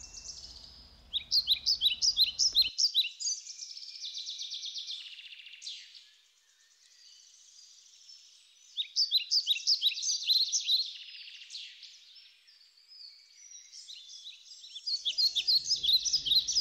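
A bird chirping in quick runs of short, sharp, high notes, about four or five a second, in three bursts with pauses between them.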